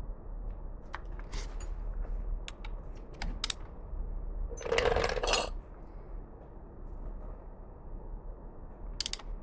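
Light metallic clinks of tools and parts being handled, with a louder rattle of metal on metal about five seconds in and a couple more clicks near the end. A faint steady low hum sits underneath.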